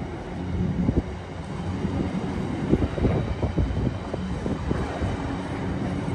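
Container freight train passing: the flat wagons' wheels rumble steadily with irregular clattering knocks over the track, with some wind on the microphone.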